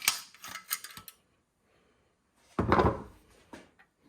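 Hard objects clattering and knocking as they are handled: a quick run of sharp clicks in the first second, then one louder, short scraping clatter near the three-second mark.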